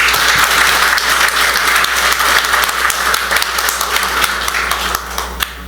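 Audience applauding, a dense round of clapping that thins out and stops near the end.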